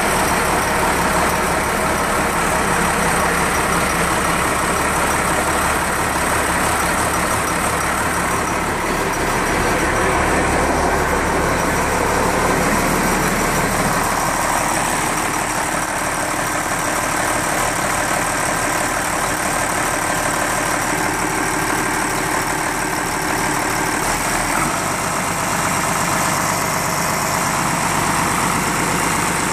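Freshly rebuilt Cummins 8.3-litre inline-six diesel engine in a Case IH machine running steadily just after its first start-up, its low note shifting a few times.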